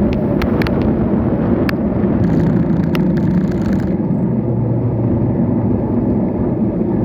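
Steady rumbling wind and road-traffic noise heard while riding, with several sharp clicks in the first two seconds and a low steady hum briefly past the middle.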